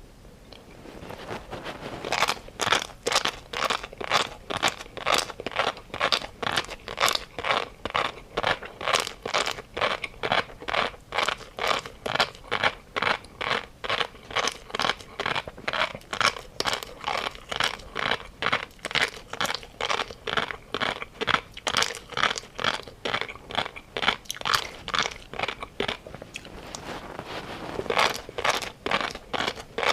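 Close-up chewing of crunchy food, a steady rhythm of crisp crunches at about two a second, softening briefly near the end before picking up again.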